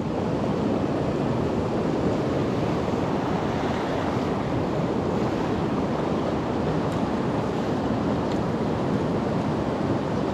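Creek water rushing steadily, an even wash of flowing water.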